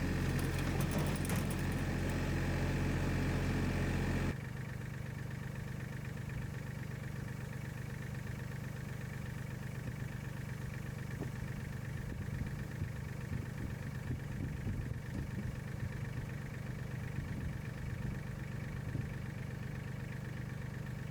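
Portable bandsaw mill's engine idling steadily. About four seconds in, the sound cuts suddenly to a quieter, steady idle with a faint fast flutter.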